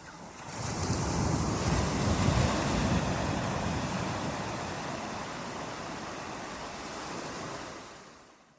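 Surf: a wave rushing in and washing, swelling about half a second in, then slowly ebbing and fading out near the end.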